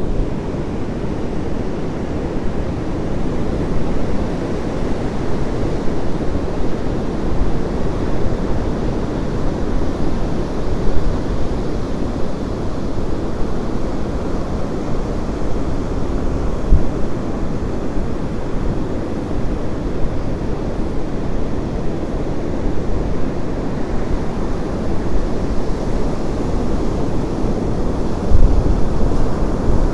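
Ocean surf breaking on a beach, a steady wash of waves, with wind buffeting the microphone, a heavier low rumble of wind near the end.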